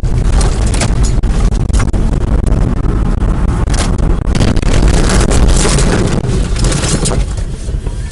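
Loud vehicle noise with heavy wind rumble on the microphone, broken by many sharp knocks and cracks, the loudest stretch a few seconds before the end.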